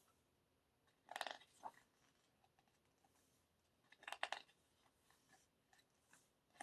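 Near silence, broken twice by brief paper rustles, about one second in and again about four seconds in, as album pages are handled.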